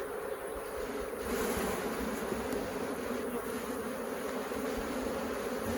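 Steady buzzing of a mass of honey bees around an opened hive.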